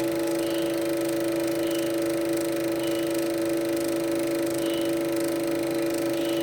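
A film soundtrack's steady electronic drone of two held tones, with faint short high blips at irregular intervals.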